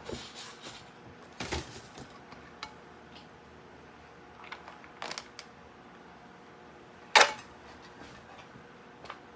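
Kitchen handling noises: a few scattered clicks and knocks of utensils and dishes, the loudest a sharp knock about seven seconds in.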